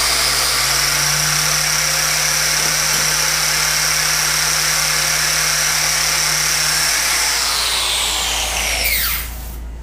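Corded angle grinder running steadily at full speed with a high whine, then switched off near the end, its whine falling as it spins down.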